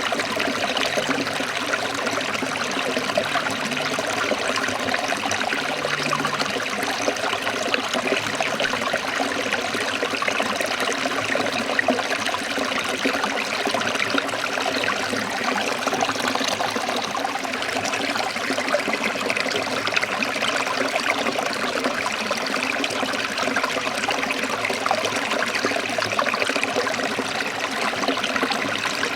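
Forest stream trickling and splashing over rocks in a steady, unbroken rush of running water.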